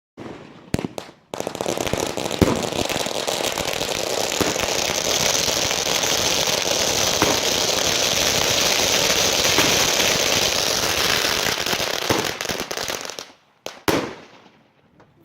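Fireworks crackling: a couple of pops, then a dense, continuous run of rapid small cracks for about twelve seconds, like a long string of firecrackers going off. It stops abruptly, followed by a couple of separate bangs near the end.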